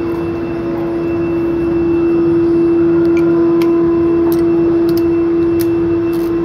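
Concrete-cutting equipment running: a loud, steady machine drone with a constant hum. A few light clicks in the second half.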